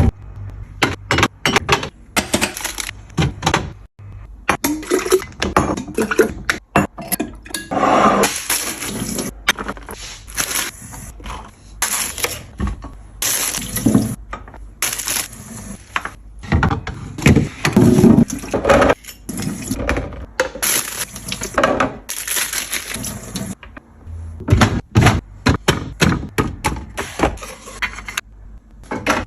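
Fridge restocking: a rapid, irregular run of clacks and knocks as food containers and bottles are handled, set down and opened, with stretches of liquid being poured between them.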